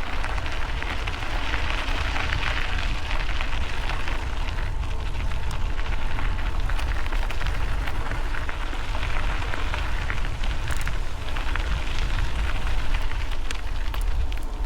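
Bike tyres rolling and crunching over a dusty gravel road, with a steady rumble of wind buffeting the microphone and a patter of small stone clicks.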